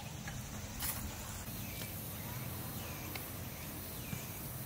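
Faint evening ambience with a steady low hum and a few short, high chirps, typical of insects; a single brief click about a second in.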